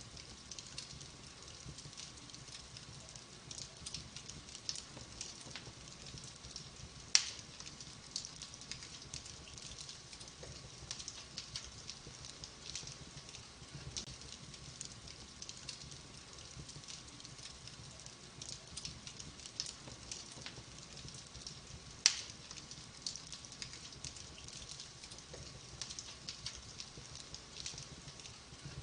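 Wood fire burning in a fireplace, crackling steadily with many small ticks, and two louder sharp pops, about a quarter of the way in and again about three-quarters of the way in.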